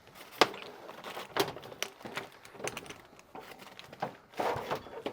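Things being handled and shifted about: a string of separate knocks and clunks, the sharpest about half a second in, with a rustle of rummaging near the end.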